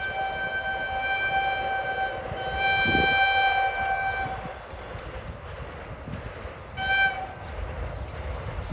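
Indian Railways WAG-9HC electric locomotive's horn sounding two long blasts and then a short one about seven seconds in, over the rumble of the running train.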